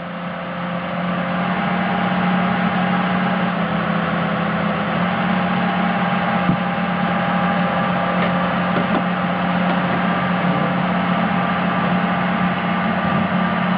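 Excavator's diesel engine running steadily at working speed, building up over the first couple of seconds and then holding a constant drone.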